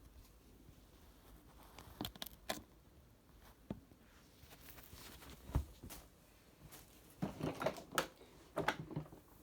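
Faint, scattered clicks and knocks of something being handled, a few single ones spread out and then a busier run of rattles and knocks near the end.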